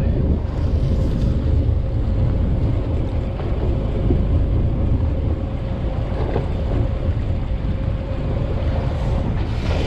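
Fishing boat's engine running steadily under way, a low drone with a constant hum, and wind buffeting the microphone.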